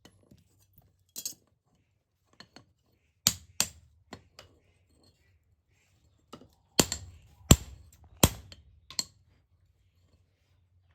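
Sharp metal-on-metal knocks and clinks from hand-working an iron piece, about ten irregularly spaced strikes, the loudest three coming in the second half.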